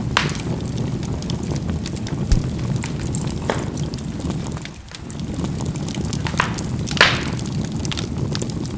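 Charcoal burning in a fireplace: a steady low rushing of the fire with a handful of sharp pops as the charcoal bursts, the loudest about seven seconds in.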